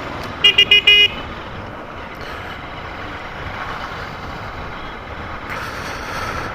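A vehicle horn gives four short, quick beeps about half a second in, over steady wind and road noise of a moving motorcycle.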